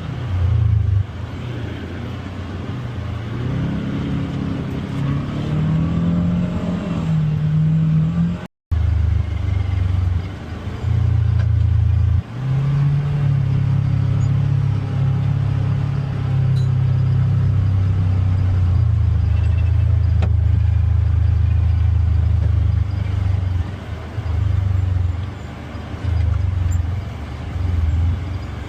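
Polaris Xpedition UTV's twin-cylinder engine running on the trail, its pitch rising and falling with the throttle. The sound drops out for a moment about nine seconds in.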